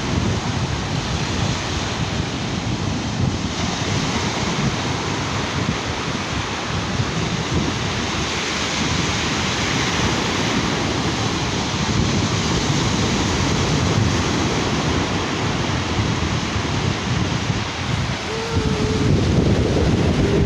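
Sea waves washing onto a beach, a steady surf noise, with wind buffeting the microphone.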